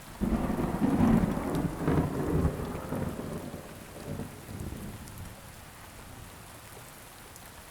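A thunderclap breaks about a quarter second in and rolls on, fading over about five seconds, over steady rain; the steady rain continues after it dies away.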